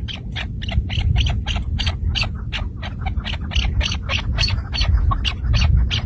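Chukar partridge calling: a fast, unbroken series of short, sharp clucks, about five a second, over a steady low rumble.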